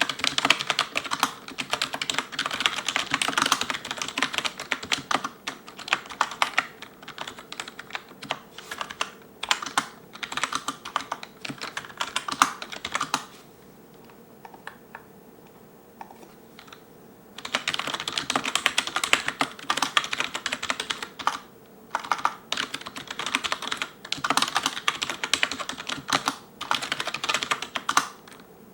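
Fast touch-typing on an ELECOM TK-FDM088TBK wireless membrane keyboard, with cylindrical keycaps clattering in quick runs of keystrokes. The typing stops for about four seconds around the middle, then starts again at the same pace.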